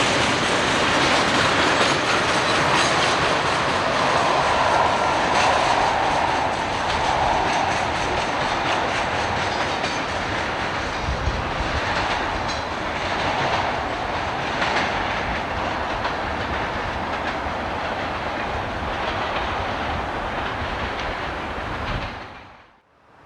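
Freight train passing on jointed track: steady rolling roar of car wheels with a clickety-clack of wheels over rail joints. The sound fades out suddenly near the end.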